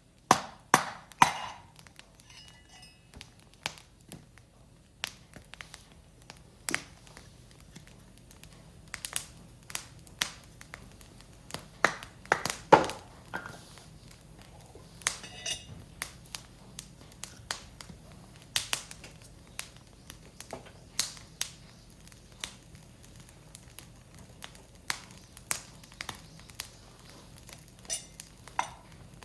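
Firewood burning in a Picogrill fire pit, crackling with irregular sharp pops and snaps, one louder snap about halfway through.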